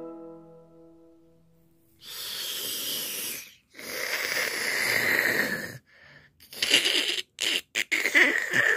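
A fading piano chord, then several breathy, wheezing noises in separate bursts from about two seconds in, growing short and choppy near the end.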